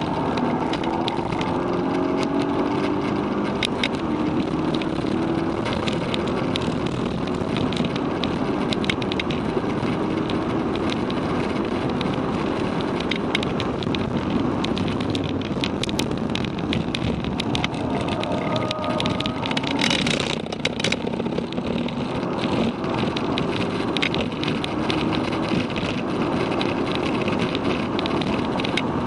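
Volkswagen Golf GTI Mk6's turbocharged 2.0-litre four-cylinder engine heard from inside the cabin at track pace, its note climbing several times under hard acceleration, over steady tyre, road and wind noise.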